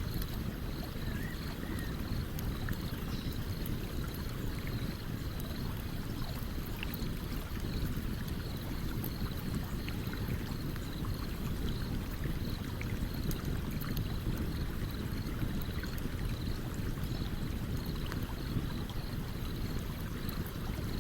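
Stream water rushing steadily in a low, even wash, with faint, scattered crackles from a wood campfire.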